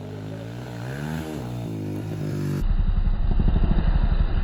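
Dirt bike engine revving up and back down. After a cut about two and a half seconds in, a dirt bike engine runs close with a fast, rough pulsing.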